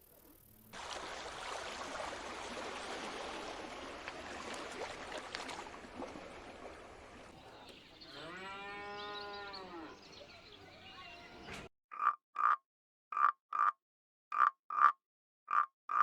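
A cow moos once, a single long call that rises and then falls, over a rustling background. After an abrupt cut, a different animal gives short, clipped calls in quick pairs, repeating about every second and a half against dead silence.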